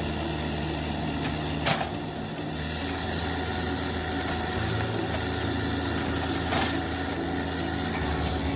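Excavator's diesel engine running steadily, its note shifting a couple of times as it works, with two short sharp cracks, one about two seconds in and another about five seconds later.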